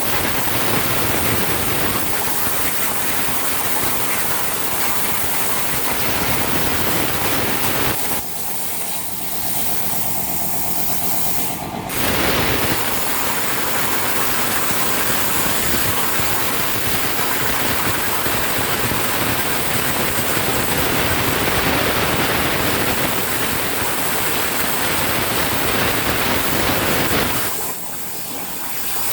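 CNC plasma cutter torch hissing as it cuts. The hiss drops away about eight seconds in for some four seconds, and again near the end, leaving a quieter steady machine hum.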